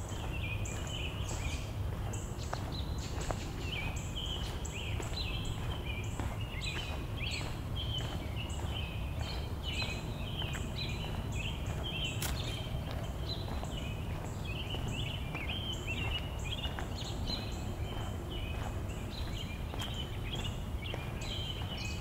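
Birds chirping and twittering continuously in quick, irregular calls, over a steady low rumble.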